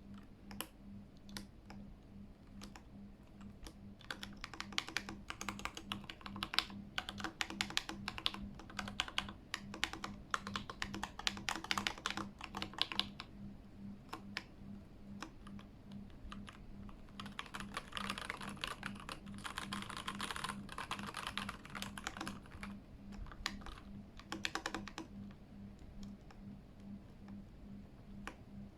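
Typing on a Keychron K8 mechanical keyboard: rapid runs of key clicks from about four to thirteen seconds in and again from about seventeen to twenty-two seconds in, with scattered single keystrokes between and after.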